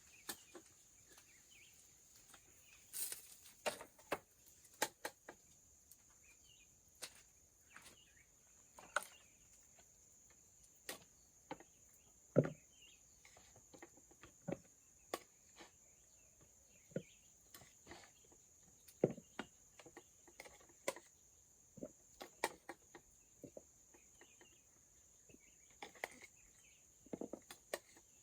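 Faint, steady high-pitched insect drone, with scattered light clicks and knocks throughout. The loudest knock comes about twelve seconds in.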